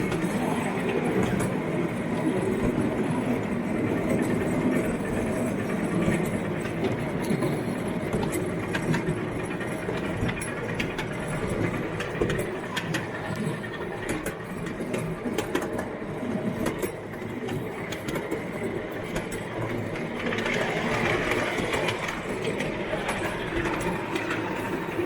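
Model train running along its track: a steady running noise with light clicking of the wheels over the rails.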